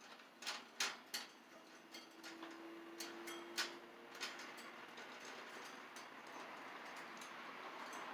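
A small pet bird splashing in a shallow water dish: a few irregular sharp splashes and taps, loudest near the start and again midway. A steady hiss slowly grows louder toward the end.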